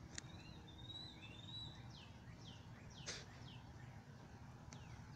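Birds calling outdoors: a wavering whistled phrase near the start, then a series of short, falling chirps later on. A steady low background rumble runs underneath, and there is one brief sharp click about three seconds in.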